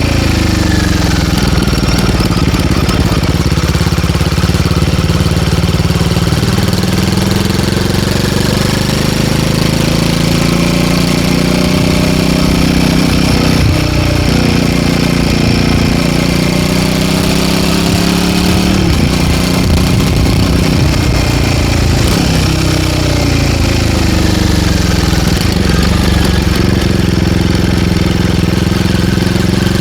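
Royal Enfield Guerrilla 450's single-cylinder engine breathing through an MTG link pipe while the motorcycle is ridden, its pitch rising and falling with the revs and breaking at gear shifts several times in the middle.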